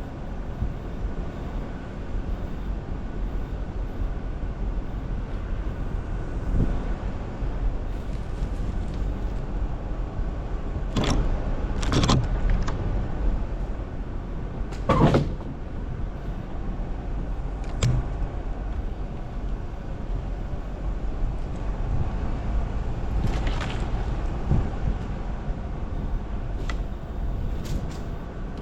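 Jeep Wrangler Rubicon crawling along an off-road trail, its engine and drivetrain running steadily at low speed. Several sharp knocks and clunks come through, the loudest about halfway through.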